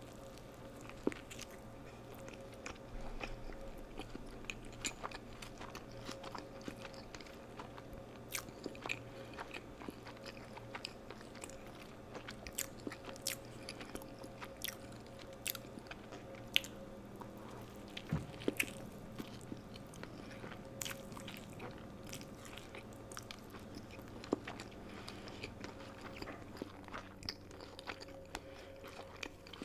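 Close-miked chewing and crunching of McDonald's fast food, with many sharp mouth clicks and bites scattered irregularly, over a faint steady hum.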